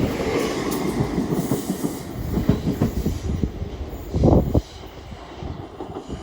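Class 800 train passing at speed, its wheels clattering over the rail joints in a rapid clickety-clack over a low rumble. About four seconds in comes one loud thump, and then the train noise falls away sharply as it clears.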